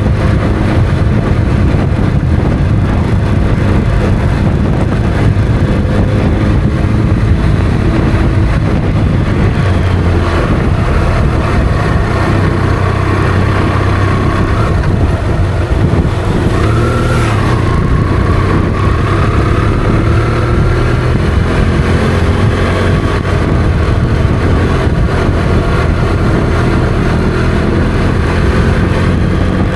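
Motorcycle engine running while riding, its pitch rising and falling slightly with changes of speed.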